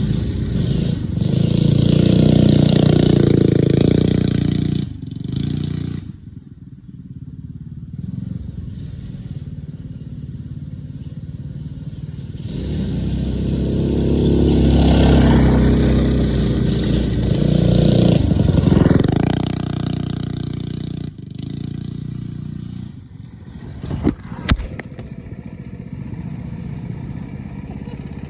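Stage 1 Predator 212 single-cylinder engine on a mini bike being ridden, rising and falling in two long surges of throttle with quieter running between and after. A couple of sharp knocks come near the end.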